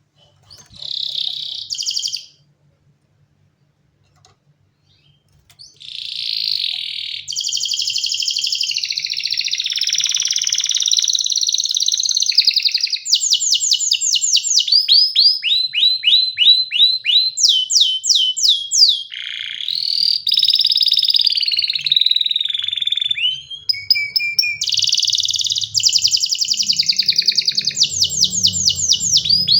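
Domestic canary singing: a short phrase, a pause of a few seconds, then a long unbroken song of fast trills, rapid runs of downward-sweeping notes and rolling warbles.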